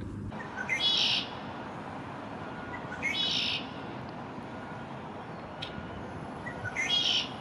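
Red-winged blackbird singing its 'ooka-lee' song three times, roughly every three seconds: each a short opening note followed by a buzzy trill.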